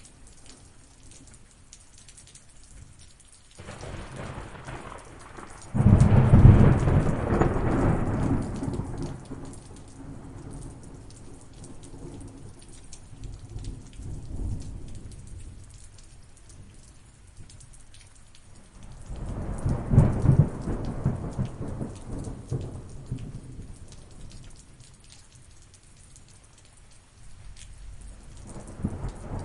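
Steady rain falling, with two loud rolls of thunder: the first cracks in about six seconds in and rumbles away over several seconds, and the second builds about twenty seconds in and fades.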